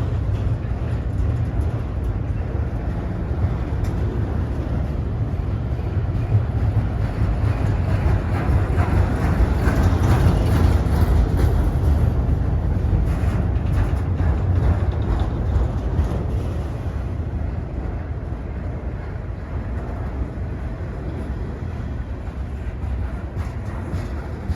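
Freight train rolling past: a steady rumble of railcars on the track that swells to its loudest about ten seconds in, then slowly fades.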